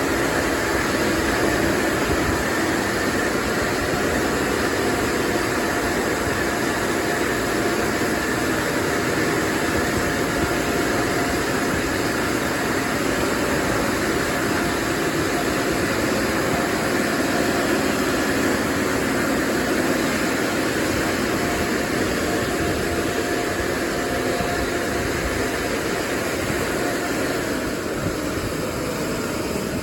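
Touchless automatic car wash dryer blowers running: a loud, steady rush of air with a faint hum, easing off slightly near the end.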